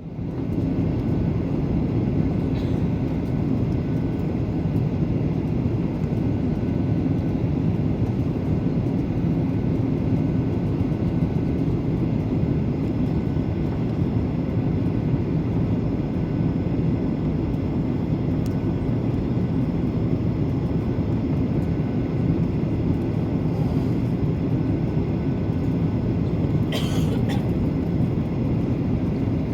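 Airliner cabin noise on approach: a steady low drone of engines and rushing air, with one brief higher sound near the end.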